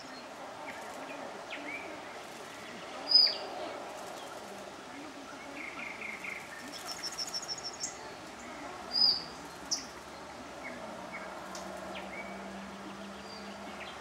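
Songbirds chirping in the trees: a short high chirp about three seconds in and another about nine seconds in, and a quick run of high notes around seven seconds, over steady outdoor background noise.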